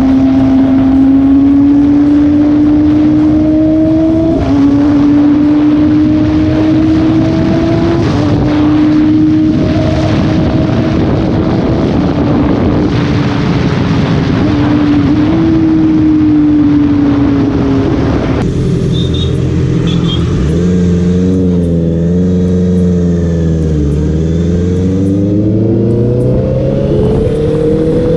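Inline-four sport motorcycle engine running under way with wind rush. The engine note climbs slowly and drops sharply at each of a few upshifts in the first half. Later the revs come down, dip low about three quarters of the way through, and climb again near the end.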